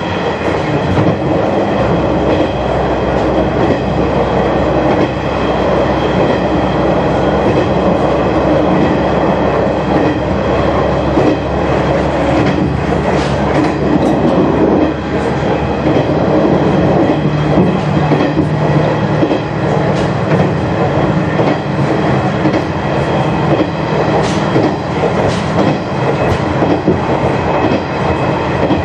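A train running along the line, heard from its rear cab: a steady rumble of wheels on rail, with a click now and then as the wheels cross rail joints.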